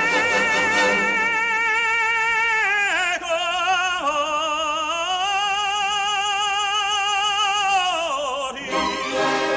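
Operatic tenor singing with orchestra, holding long notes with a wide vibrato: one note for about three seconds, a brief slide and break, then another held note for about four and a half seconds that ends shortly before the end.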